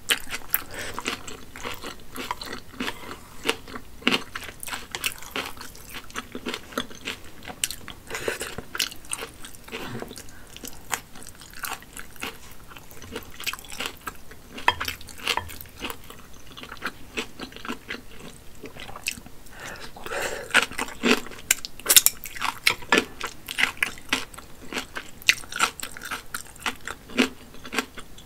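A person chewing spicy hand-pulled wheat noodles and kimchi close to the microphone: wet, sticky mouth sounds with crunching, a dense run of small clicks, busiest about two-thirds of the way through.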